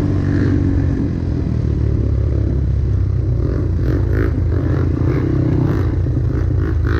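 Trail motorcycle engine running steadily at low revs while riding off-road, with a few short knocks and rattles from the bike midway through.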